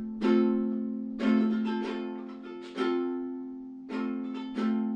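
Chords strummed on an acoustic plucked string instrument, about six strokes, each left to ring and fade: the instrumental lead-in to a sung folk song.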